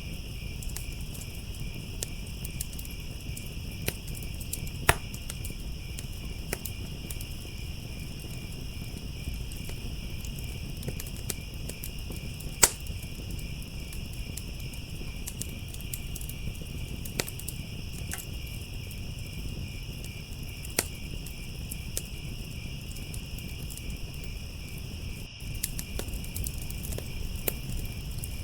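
Crickets chirping in a continuous high trill over a wood fire crackling, with scattered sharp pops, a few of them louder.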